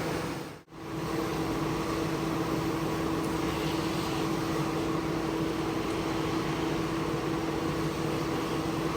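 Steady motor noise of a carpet-cleaning machine running, a constant hum over a hiss; it cuts out for a moment under a second in, then resumes.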